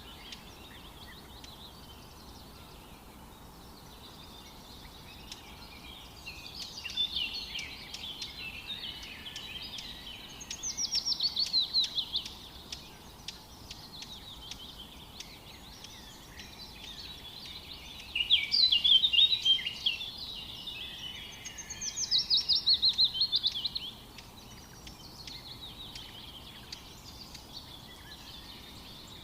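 Songbirds singing over a soft steady background hiss of forest ambience: several loud phrases of rapid, down-slurred trilled notes come about ten, eighteen and twenty-two seconds in, with quieter twittering between them.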